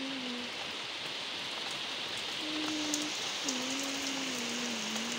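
Steady rain falling on a wet concrete terrace and potted plants, with a low tune of short and held notes over it, the longest note drawn out and sinking slightly in the second half.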